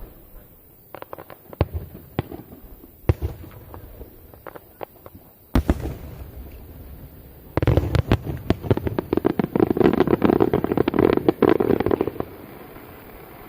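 Starmine fireworks barrage: scattered shell bursts and crackles, one loud burst about halfway through, then a dense rapid string of bursts for about four seconds before it dies away.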